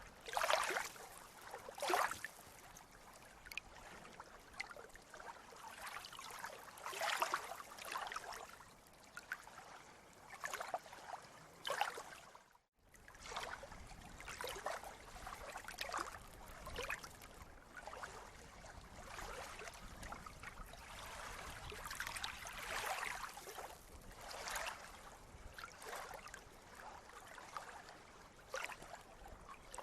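Sea water lapping and splashing gently in irregular small splashes. The sound cuts out for a moment a little under halfway through.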